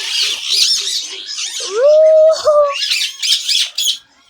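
Caged parrots chattering and squawking, many high chirps overlapping, with a louder drawn-out call about two seconds in.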